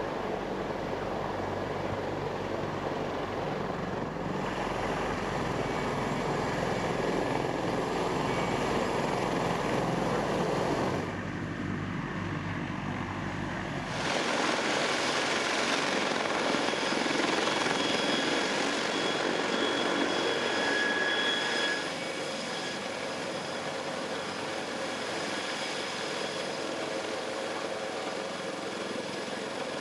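Sikorsky CH-53K King Stallion heavy-lift helicopter running: a steady dense rush of rotor and turboshaft engine noise with a faint high turbine whine. The sound changes abruptly about 11 and 14 seconds in, and drops a little about 22 seconds in.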